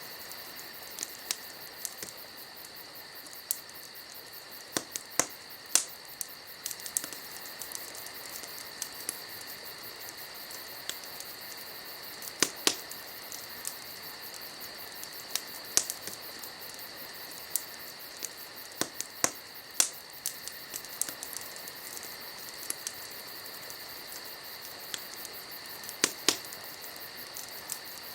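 Wood fire crackling, with irregular sharp pops and snaps a few times every few seconds, over a steady high trill of night insects.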